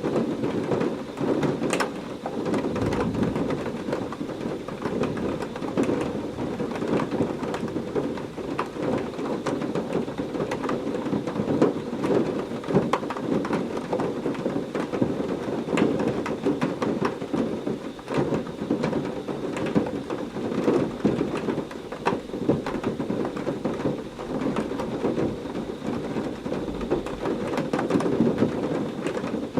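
Heavy rain pouring steadily, with many sharp drop hits close by. Low thunder rumbles about three seconds in and again near the end.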